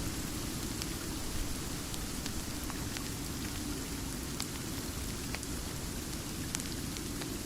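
Steady rain: an even hiss over a low rumble, with scattered small ticks and pops.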